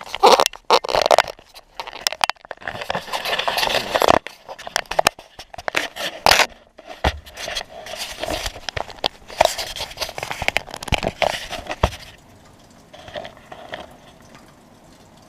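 Irregular knocking, scraping and crackling from a handheld GoPro being moved and bumped, with no horn tone. It dies down about three seconds before the end.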